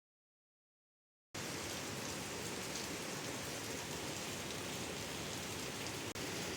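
Steady rain falling, a constant hiss that starts suddenly about a second in after dead silence.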